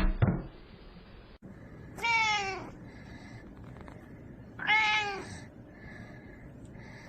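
A cat meowing: two drawn-out meows that fall in pitch, about three seconds apart, with a third starting right at the end. A brief loud noise sounds at the very start.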